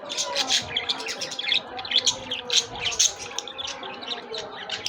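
Budgerigar chirping and chattering in a rapid, uneven run of short, high chirps, several a second.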